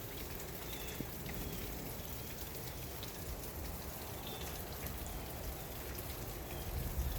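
Rain falling steadily, an even hiss with a few scattered sharper drips.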